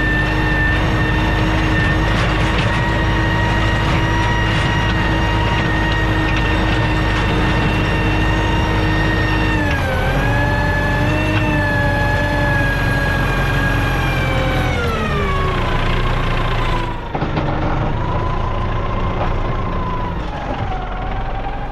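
Farm tractor engine running steadily with a high whine over the engine rumble. The pitch falls about ten seconds in and again a few seconds later as the revs come down.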